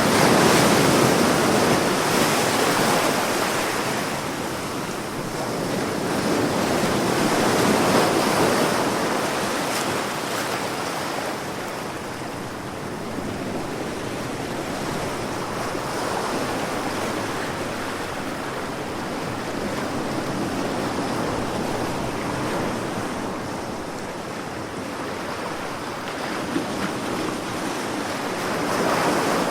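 Sea waves breaking and washing on a shore, a continuous surf hiss that swells and ebbs slowly, with louder waves near the start, about eight seconds in, and near the end.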